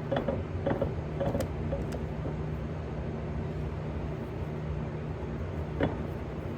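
A steady low machine hum with a few light clicks and knocks scattered through it. It cuts off suddenly at the end.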